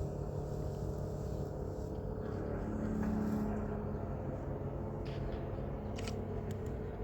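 A vehicle engine idling steadily, with a brief rise in level about three seconds in and a few faint clicks near the end.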